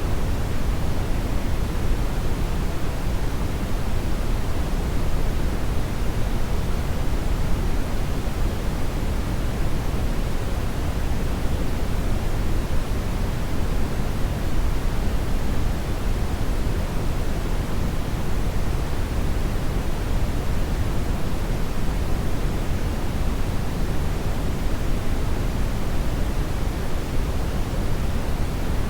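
Hair dryer running steadily, a constant even rush of air that is fullest in the low end, with no change in level.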